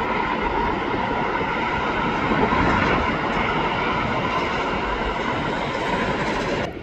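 Jet airliner engines running with a steady rushing noise and a faint steady whine, cut off suddenly near the end.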